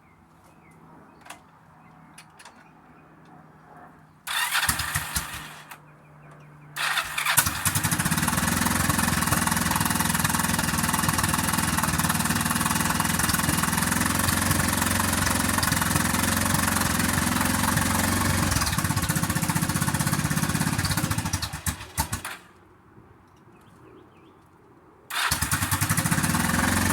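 Yamaha V-Star motorcycle's V-twin engine being started. It cranks briefly about four seconds in, catches on a second try about seven seconds in and idles steadily. It cuts off about two-thirds of the way through, then is started again and runs near the end.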